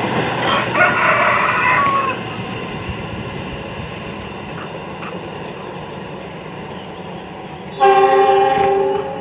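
Passing train's locomotive horn: a short chord-like blast about a second in, then a longer, louder blast near the end, over the steady rumble of the train on the rails. These are the train driver's greeting blasts.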